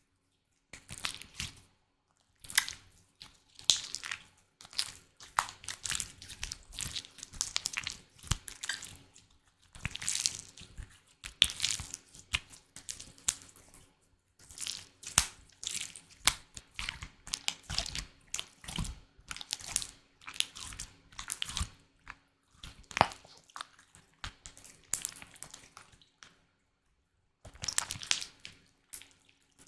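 Close-miked ASMR trigger sounds of an object being handled: irregular wet crackles, clicks and squishes in quick runs with short pauses, stopping briefly near the end.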